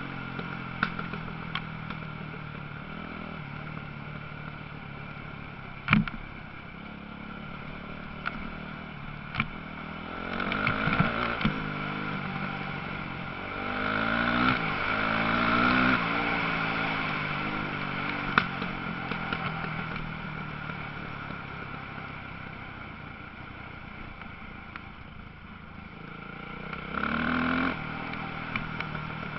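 Motocross bikes running on the track, engines revving up and down as riders pass, loudest about halfway through and again briefly near the end, with a few sharp knocks.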